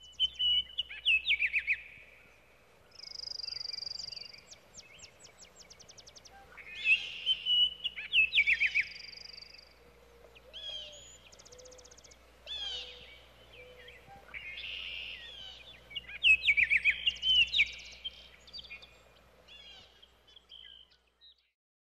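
Birds singing outdoors: phrases of chirps, clear whistled notes and rapid trills every couple of seconds, stopping about a second before the end.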